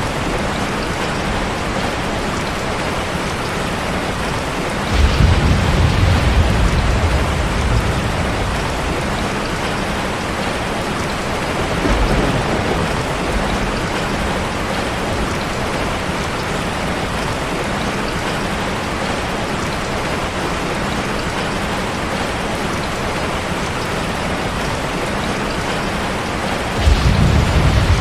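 Steady rain falling, with deep thunder rumbles: one about five seconds in lasting a few seconds, a weaker one around twelve seconds, and another starting near the end.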